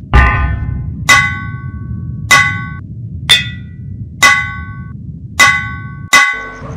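Blacksmith's hammer striking red-hot steel on an anvil: seven ringing clangs, about one a second, each dying away quickly, over a low steady rumble.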